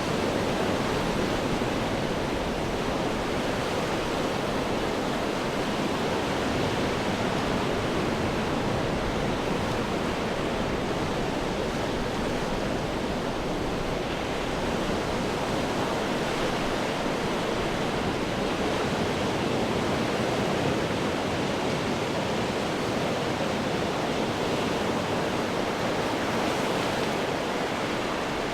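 Ocean waves crashing on rocks: a continuous, dense surf roar with little rise and fall.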